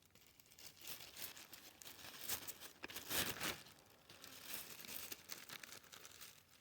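Faint, irregular crinkling and rustling with scattered soft crackles, rising a little a couple of times.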